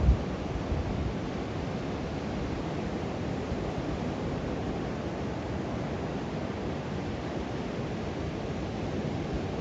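Steady wash of Pacific Ocean surf on a beach, with a gust of wind on the microphone that dies away at the very start.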